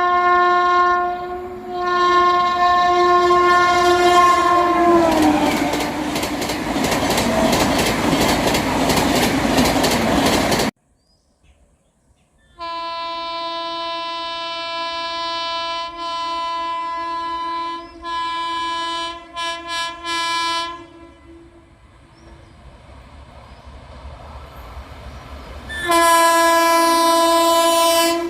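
Locomotive horns of express trains passing at speed: a long multi-note horn blast that drops in pitch as the train goes by, then the rush and rhythmic clickety-clack of the coaches, cutting off suddenly. After a gap, a second horn sounds a long blast and then several short toots, and a third long, loud horn blast begins near the end.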